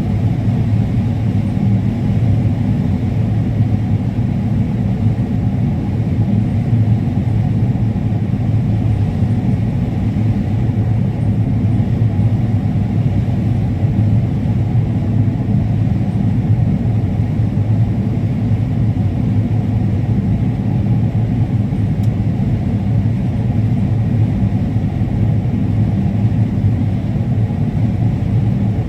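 Combine harvester running steadily while harvesting corn: a constant low drone with no change in pace.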